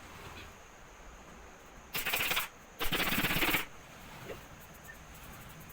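Upholstery staple gun firing in two quick rapid-fire bursts, the first about half a second and the second a little under a second.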